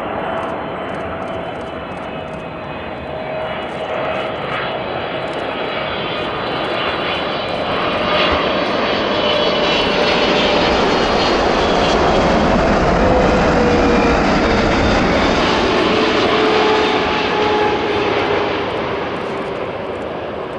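Jet airliner passing by: the engine noise builds to a peak about midway and then eases off, with a whining tone that drops in pitch as the aircraft goes past.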